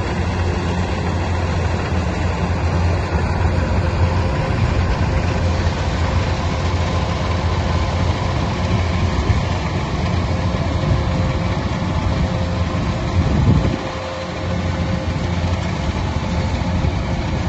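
Heavy machinery engine running steadily with a deep low drone, swelling briefly about three-quarters of the way through and then dropping for a moment before settling back.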